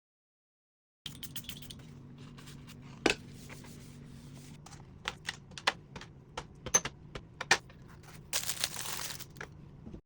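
Small objects being handled and set down on a workbench: scattered clicks and knocks, one louder knock about three seconds in, and a brief rustling scrape near the end, over a low steady hum.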